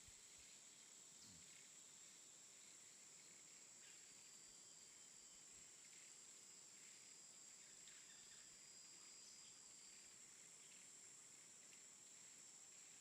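Near silence: a faint steady hiss with a thin high-pitched whine throughout and a few faint ticks.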